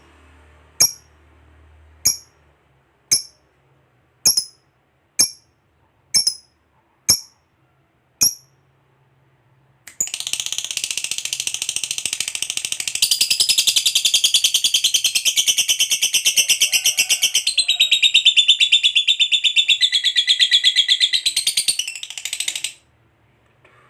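Lovebird giving short sharp chirps about once a second, then breaking into a long, very rapid chattering trill (the 'ngekek' prized in fighter lovebirds) that runs for about thirteen seconds and stops abruptly.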